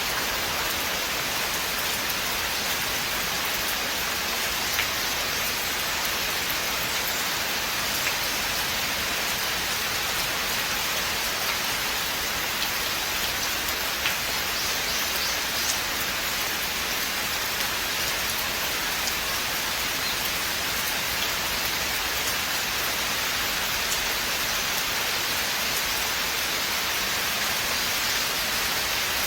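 Steady rain falling in a forest, an even hiss with scattered drop ticks.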